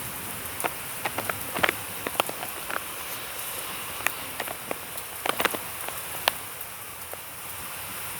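Heavy rain falling steadily, with irregular sharp taps of drops striking close by.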